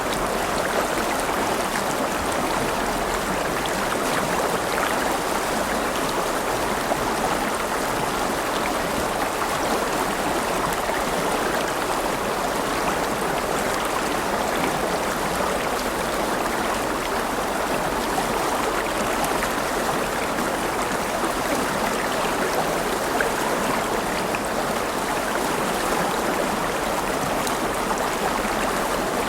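River water flowing and babbling over stones in a steady rush.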